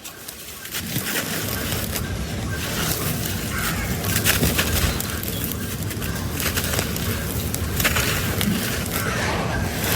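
Dried sand-cement chunks being crumbled: a continuous gritty crunching with many small sharp cracks.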